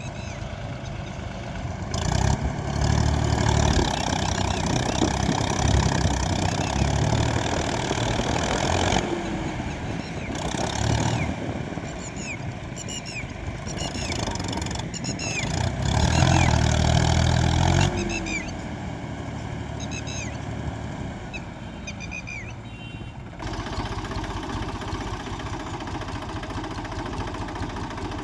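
Mahindra 275 DI tractor's three-cylinder diesel engine running and revving hard in two louder surges, working under load with the tractor stuck in the mud of a puddled paddy field.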